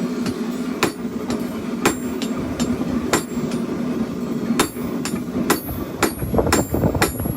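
Forging hammer striking hot steel on an anvil, each blow short and ringing; the strikes come about once a second at first and quicken in the second half.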